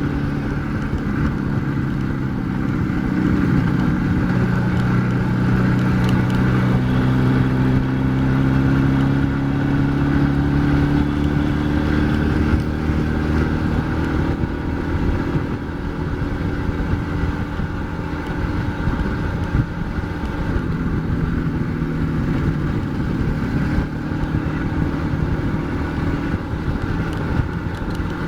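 IZh Jupiter 4's two-cylinder two-stroke engine running as the motorcycle is ridden. The engine note climbs slowly, then drops about twelve seconds in and runs on at a lower pitch.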